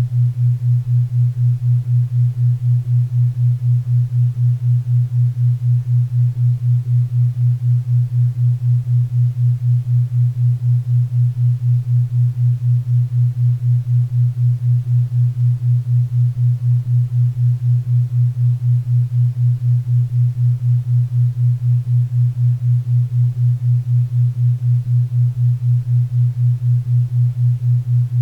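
Low humming tone that pulses evenly about four times a second: a 4 Hz theta-wave beat, with faint pink and brown noise underneath.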